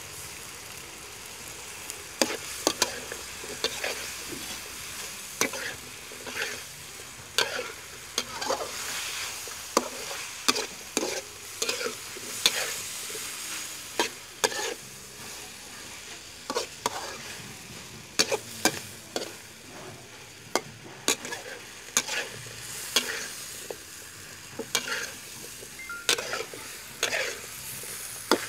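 Beef and pak choy stir-frying in a pan: a steady sizzle, with frequent sharp scrapes and knocks of the cooking utensil against the pan as the food is stirred.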